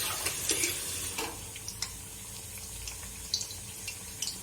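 Malpua batter deep-frying in hot oil: a steady sizzle with scattered small crackles and pops.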